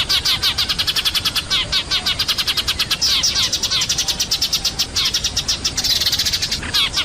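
Eurasian tree sparrows chattering noisily: rapid, continuous chirps, many a second, overlapping into a denser chatter in the second half. This is a lure call used to draw sparrows down.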